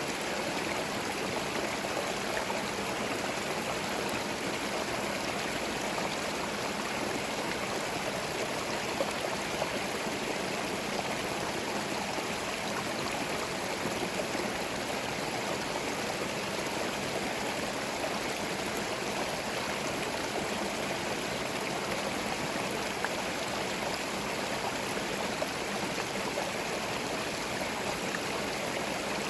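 Small forest stream running over stones: a steady, even babble of flowing water with splashing and trickling.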